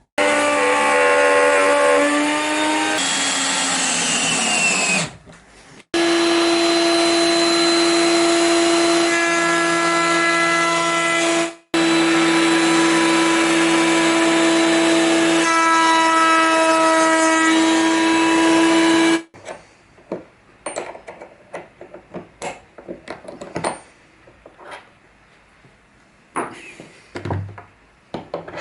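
Router mounted in a router table running at full speed, a steady high-pitched whine; about three seconds in it winds down with falling pitch, then runs steady again. After about nineteen seconds the motor is off and only scattered light knocks and clatter of wood pieces being handled remain.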